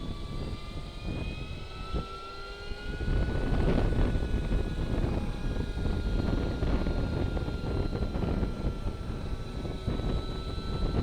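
Energica Experia electric motorcycle riding along, its electric motor whining over heavy wind and road rumble. The whine rises in pitch over the first few seconds as the bike speeds up, then holds nearly steady.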